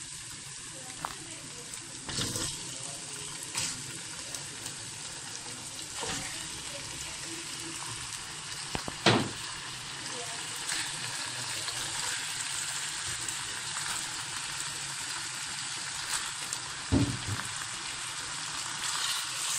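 Ginger-garlic paste sizzling in hot oil in a nonstick kadai, a steady hiss. Raw chicken pieces go into the pan with a few short knocks; the loudest comes about nine seconds in.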